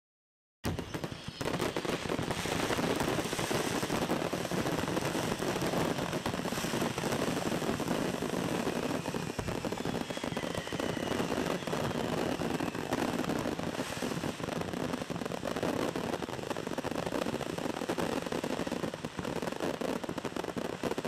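A large pile of fireworks detonating all at once: a dense, continuous barrage of cracks and pops that starts suddenly about half a second in. A faint falling whistle comes through about halfway.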